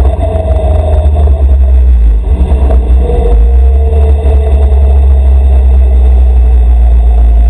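Tractor engine running hard with a heavy low rumble; the level is uneven for the first two or three seconds, then holds steady.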